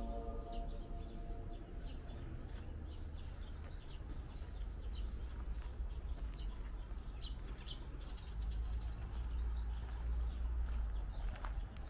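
Small birds chirping repeatedly, short high calls scattered through, over a steady low rumble.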